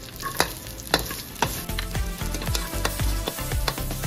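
Pork belly pieces and ginger slices sizzling in hot oil in a wok, with a metal ladle scraping and clicking against the pan many times as they are stirred.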